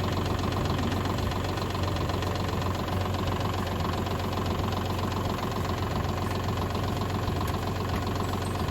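Kubota tractor's diesel engine idling steadily, with an even clatter.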